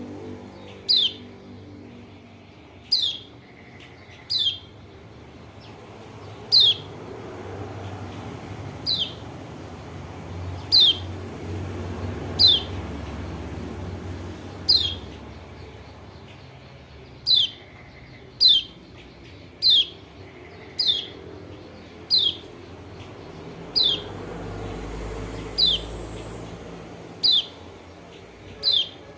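Kecial kuning, a white-eye (pleci) from Lombok, calling: a single short, high note that sweeps sharply down in pitch, repeated about every one to two seconds. It is the bird's call, used as a lure to prompt other birds to answer.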